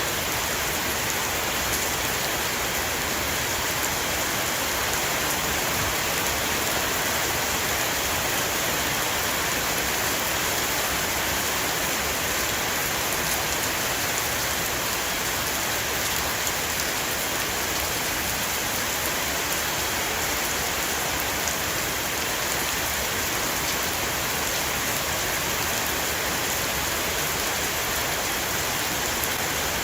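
Heavy rain shower falling on a roof: a steady, even hiss of rain with fine scattered drop ticks.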